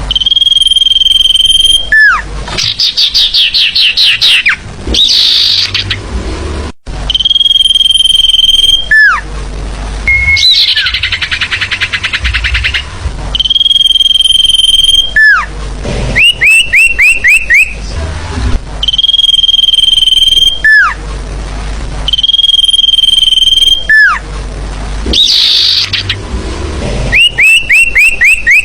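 Lure-call recording of a forest bird known as "sirtu", calling loudly over and over. Each phrase is a long steady whistle, then a falling note, then a quick run of rising chirps or a fast trill, and the phrase repeats about every six seconds.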